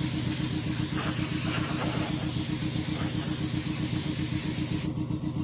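Car engine running steadily with a low, even hum, under a high steady hiss that stops near the end.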